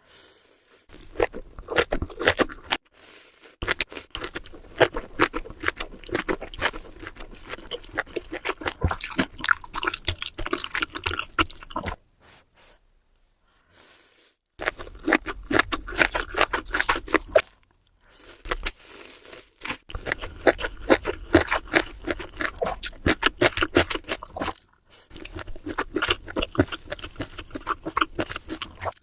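Close-miked eating sounds: crunchy chewing with dense, rapid crackles, in long runs broken by short pauses, the longest about twelve seconds in.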